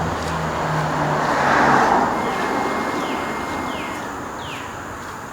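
A motor vehicle passing on a road: its engine hum and tyre noise swell to a peak about two seconds in, then fade away.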